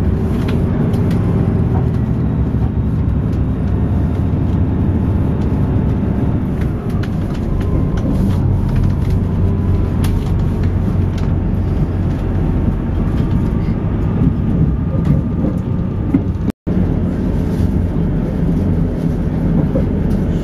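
Steady rumble of a passenger train heard from inside the carriage while it runs along the track. The sound cuts out for an instant about three-quarters of the way through.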